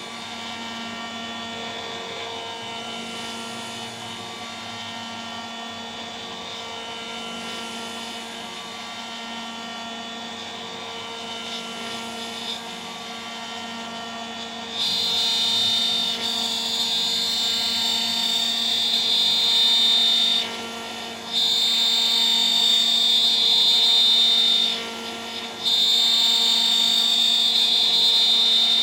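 DIY CNC router spindle running steadily at 14,000 RPM with a 3 mm three-flute end mill. About halfway in, a loud high-pitched cutting whine sets in as the end mill engages the workpiece, dropping out briefly twice between passes.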